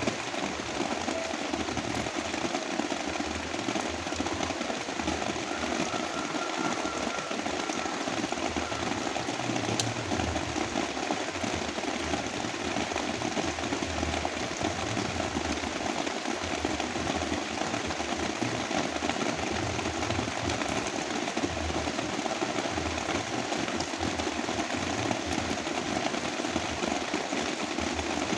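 Heavy rain falling steadily, blended with a deep brown-noise hiss.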